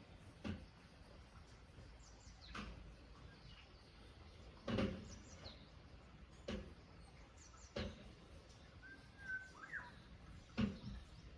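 A songbird gives one short chirp with a quick rise in pitch near the end, over a faint outdoor background. Soft irregular knocks come every second or two and are louder than the bird.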